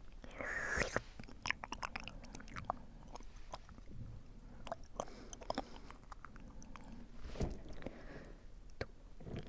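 Close-miked wet mouth sounds: scattered tongue and lip clicks and smacks, with a breathy puff of air about half a second in.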